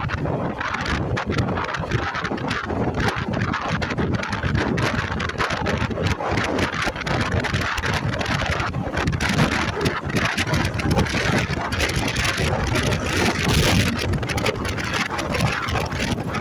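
Wind buffeting the microphone over the running engine and road noise of a motorcycle on the move, steady throughout.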